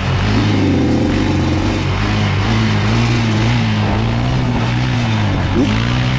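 Dirt bike engine running steadily, its pitch wavering slightly.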